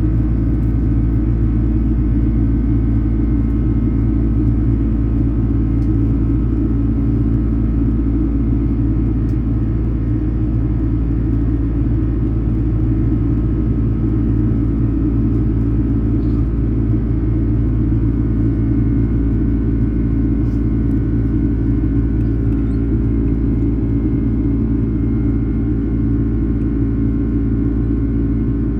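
Steady jet airliner cabin noise in flight: an even rumble of engines and airflow with a constant low hum.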